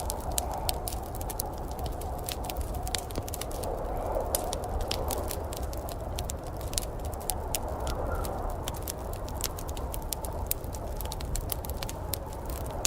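Wood fire crackling, with many quick, irregular sharp pops and snaps over a steady low rumbling background.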